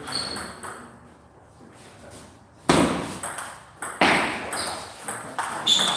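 Table tennis ball being played: sharp clicks of the ball off paddle and table, the loudest two hits a little before halfway and again a second or so later.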